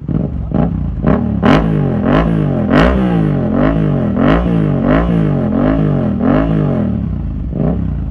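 Motorcycle fitted with a Proformance aftermarket exhaust, revved in quick repeated throttle blips at about one every 0.7 seconds. Each blip is a rising and falling engine note with a sharp crack at its peak.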